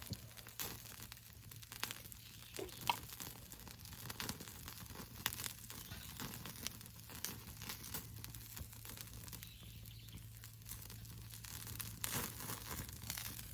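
Wood fire crackling in a fire pit, with irregular sharp snaps and pops.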